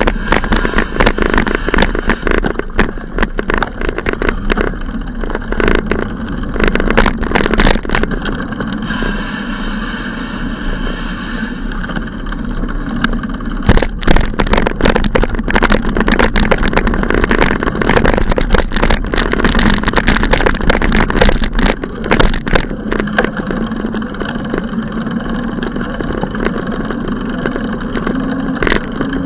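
Steady rushing noise, crackling and buffeting, with a low hum underneath: wind and road noise on a microphone carried on a moving bicycle, with traffic noise mixed in.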